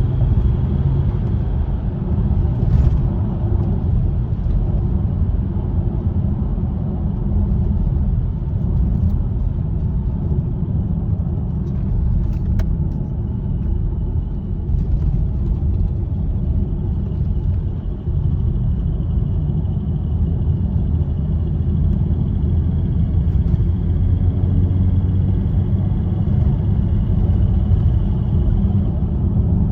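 VW/Audi 3.0 TDI V6 diesel engine (CASA code) running steadily with a deep rumble. This is the engine whose ticking noise the owner is investigating.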